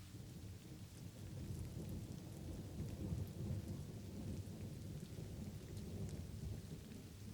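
Light rain falling steadily with scattered drop ticks, under a low rolling thunder rumble that swells about a second in and carries on.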